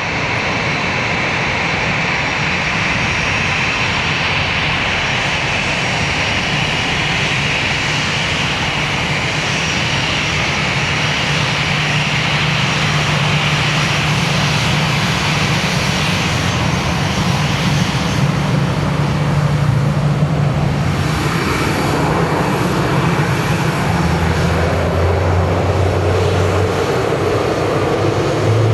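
Jet airliner's engines running at high power for takeoff, a loud steady jet noise with a high fan whine that is strongest in the first half and gives way to a deeper rumble later on.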